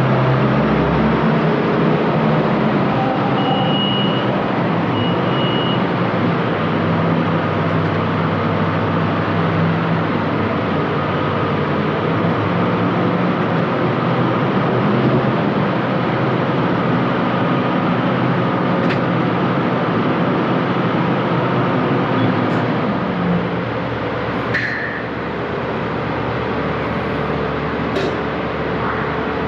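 Hyster V30ZMU electric man-up turret truck being driven, a steady noisy running sound with two short high beeps about four to six seconds in and a few sharp clicks later on.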